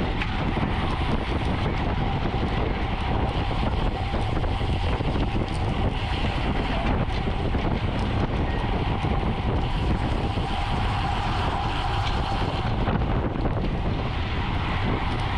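Wind buffeting the microphone of a camera moving at speed on a racing bicycle, a steady rushing noise with road and tyre hum underneath.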